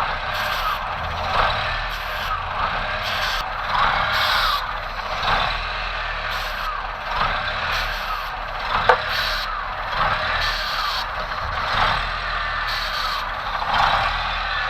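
Short, repeated hisses of an aerosol throttle-body cleaner being sprayed, about one burst every second, over a steady low hum.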